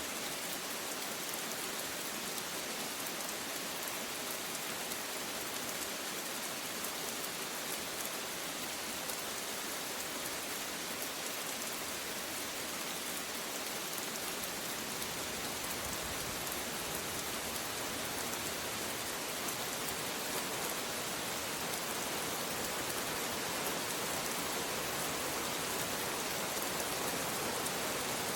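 Steady rain falling, an even hiss of many drops on a surface, growing a little heavier after about twenty seconds; no thunder.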